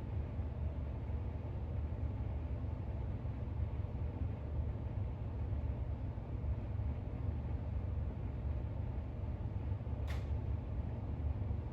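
Steady low rumble of background room noise, with one brief crisp sound about ten seconds in.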